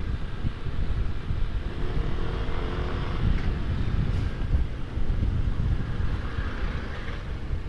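Wind buffeting the microphone inside a motorcycle helmet while riding a scooter, a heavy rumble that masks the engine; the rider puts it down to an air leak on the right side of the helmet. A brief gliding tone sounds about two to three seconds in.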